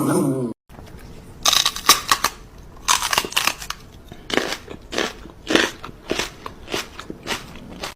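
A series of short, sharp, irregular crunches, about a dozen over several seconds.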